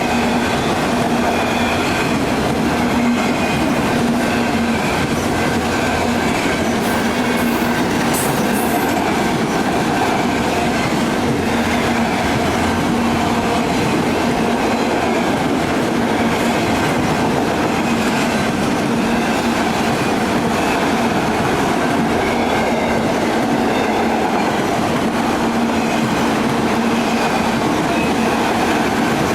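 Union Pacific freight train rolling past, a steady loud rumble of wheels on rail with clickety-clack and a steady low drone. There are a few brief high squeaks about seven to nine seconds in.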